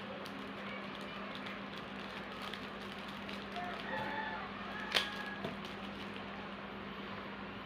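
Faint chicken calls over a steady low hum, with one sharp click about five seconds in.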